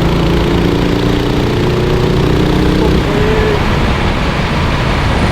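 Racing engine running at speed under a heavy, steady wash of noise. Its pitch holds fairly level with a slight rise over the first three seconds, then fades into the noise.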